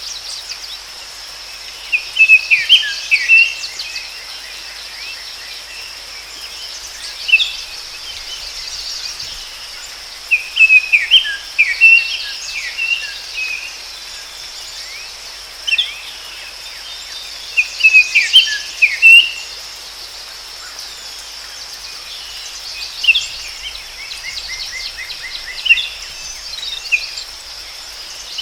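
A songbird singing short chirping phrases every few seconds over a steady, high-pitched insect drone in a forest.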